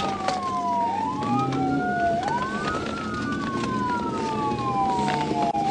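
Police car siren in wail mode, two overlapping wails each rising quickly and falling slowly, over a steady low vehicle engine hum.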